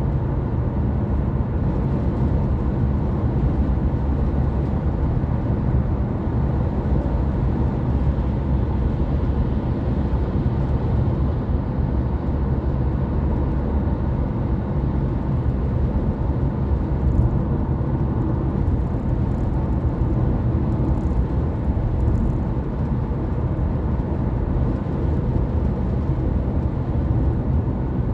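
Car driving at a steady speed: a low, even rumble of engine and tyre-road noise.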